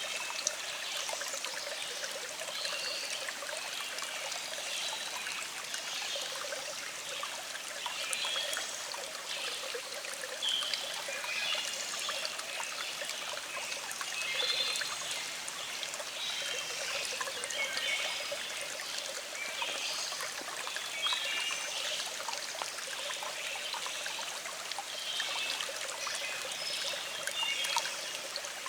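A small stream trickling and bubbling steadily over rocks.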